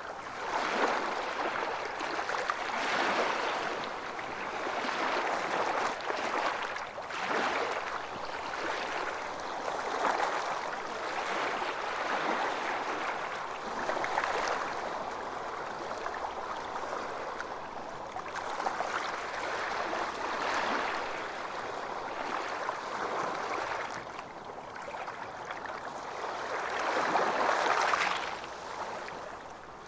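Calm waves lapping and sloshing against yacht hulls, a continuous splashing that swells and eases every few seconds, with the strongest swell near the end.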